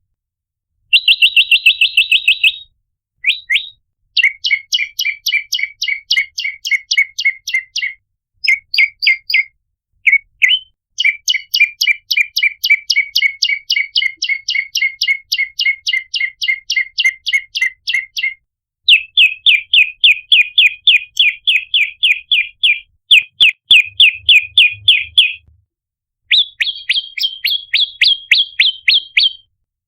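Recorded calls of the prenjak lumut (red-headed prenjak): fast series of sharp, high chirps, about four to five a second, in runs of a few seconds with short breaks between them. It is a lure (pikat) recording, used to draw the birds in.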